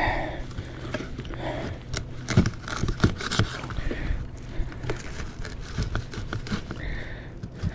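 A dull knife sawing and scraping through partly frozen skipjack bait, with irregular short scrapes and knocks as the blade struggles through the fish like cutting ice.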